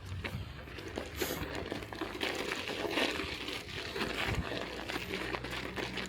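Bicycle tyres rolling over snow with a crunching crackle, loudest about halfway through, over a low rumble.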